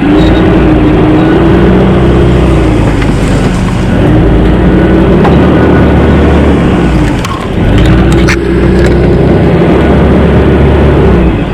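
Four-wheel-drive's engine working hard under load in soft ground, its pitch rising and falling with the throttle. It eases off briefly about seven and a half seconds in, then picks up again.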